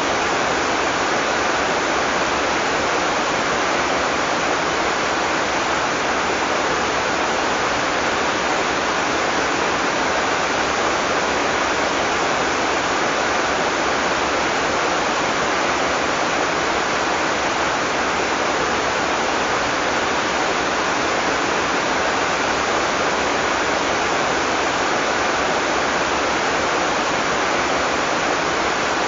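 Heavy tropical rain falling in a steady, even downpour, with no thunder.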